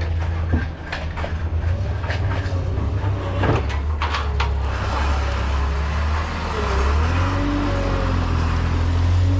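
A vehicle engine running steadily, with scattered clicks and knocks over the first few seconds. About seven seconds in, the engine note changes and a higher steady whine comes in and holds.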